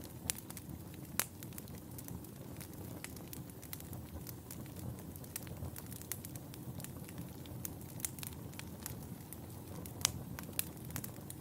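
Wood fire burning in a fireplace: a steady low rumble of flames with frequent sharp crackles and pops, a few louder pops just over a second in and about ten seconds in.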